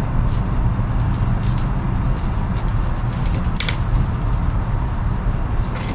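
Steady low background rumble, with a few faint clicks and rustles of bankline cord being wrapped around a wooden pole.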